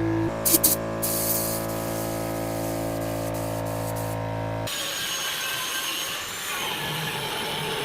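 Power tool running with a steady motor hum, a few clicks and a short hiss about a second in, then a sudden change about two-thirds of the way through to a rougher, uneven noise.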